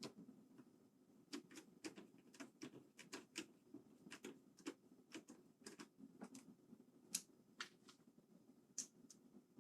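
Faint, irregular clicks and light taps, a few a second, from small mechanical keyboard parts and screws being handled and fitted during reassembly.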